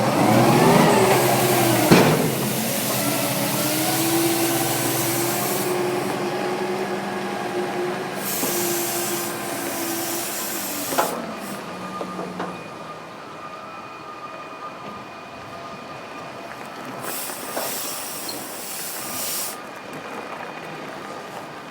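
Kenworth T609 truck's diesel engine revving up and holding a steady note, then dropping back to a quieter run, with several long bursts of air hiss and a sharp clunk about two seconds in and another about eleven seconds in.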